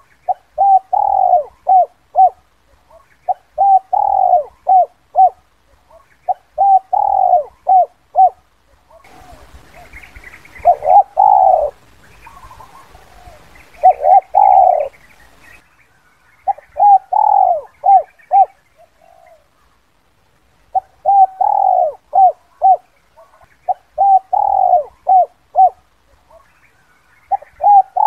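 Spotted dove (Spilopelia chinensis) cooing: its call used as a lure, short phrases of several quick coo notes repeated every few seconds. In the middle, over a faint hiss, come two longer, louder coos.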